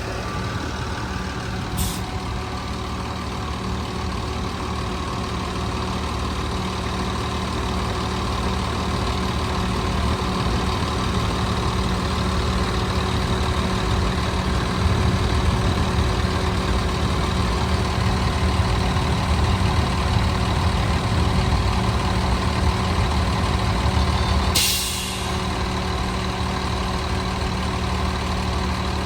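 Jet fuel truck's engine running steadily with its PTO-driven fuel pump engaged while fuel is dispensed, growing louder through the middle. A sharp click comes near the start, and a short burst of hiss about twenty-five seconds in, after which the sound drops back a little.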